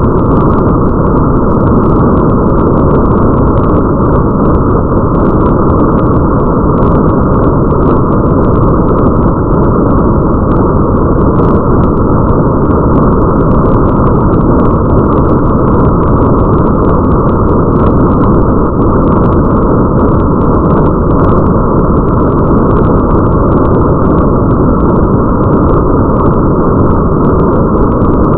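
Steady, muffled rain ambience with a deep, even rumble underneath and faint ticks of drops scattered through it.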